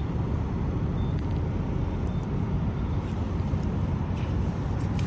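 Fuel pump keypad beeping twice, short high beeps as numbers are keyed in, over a steady low rumble.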